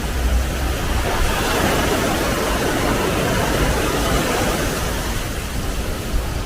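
Small waterfall rushing steadily, with wind buffeting the microphone. The rush of water swells about a second in and eases off toward the end.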